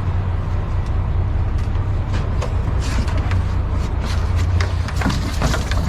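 Boat motor running with a steady low rumble, under a rushing noise and scattered short clicks.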